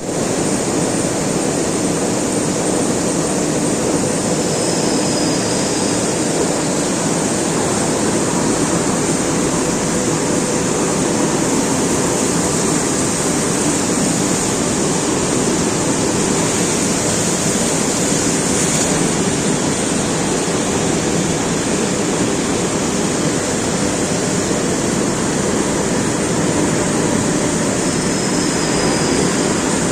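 Steel coil slitting line running: steady, loud machinery noise with a faint low hum.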